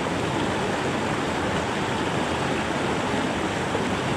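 Creek water rushing and burbling over rocks, a steady unbroken rush.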